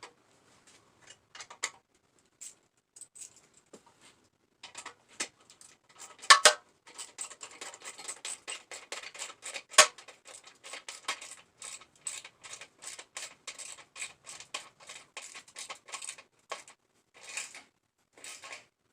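Hand ratchet wrench clicking in a steady run of short strokes, about four clicks a second, as a motorcycle rear fender bolt is tightened. A few scattered metal clicks come before it, and two sharper metal knocks stand out.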